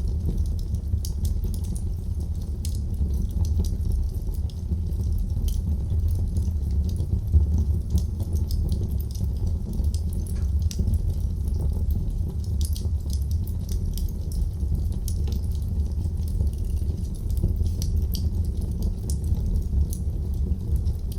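Wood fire burning in a fireplace, with many small, irregular crackles and pops over a steady low rumble.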